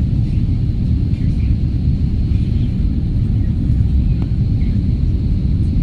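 Steady low rumble of a passenger airliner during landing, heard from inside the cabin, with faint voices in the background.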